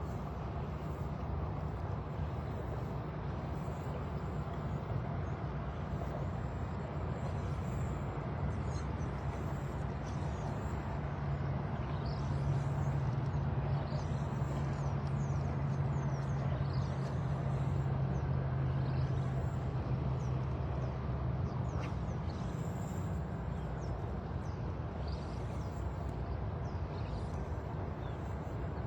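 A steady low engine hum that grows a little louder and steadier in pitch for several seconds in the middle, with faint high chirps above it.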